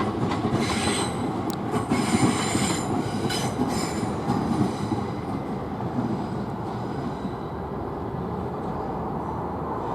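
Electric multiple-unit train running on the approach tracks, its wheels squealing in high ringing tones over the first four seconds. The rumble then fades slowly.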